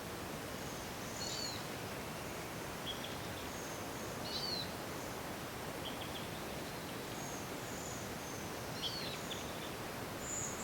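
Natural outdoor ambience: a steady hiss with a bird giving short, high chirps and whistles every second or two.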